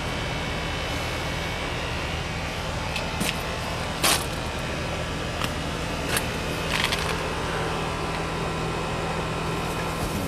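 Steady low mechanical hum over a faint outdoor hiss, with a few light clicks or taps, the loudest about four seconds in.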